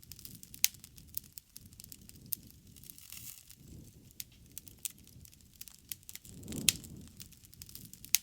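Wood fire crackling: irregular sharp pops and snaps over a low rumble of burning, with a louder pop late on.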